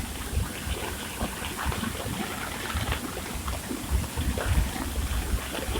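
Floodwater rushing in a swollen river, a steady noise of running water, with irregular low buffets of wind on the microphone.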